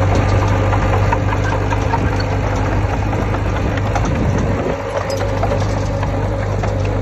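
Heavy diesel engine of earthmoving machinery running steadily with a deep hum and a light clatter. About four and a half seconds in the engine note briefly dips and shifts.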